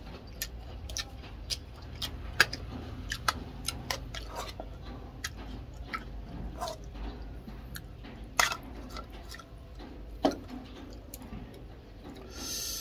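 Close-up eating sounds: chewing with frequent short, sharp mouth clicks and smacks, two louder ones past the middle, and a brief hiss-like noise near the end.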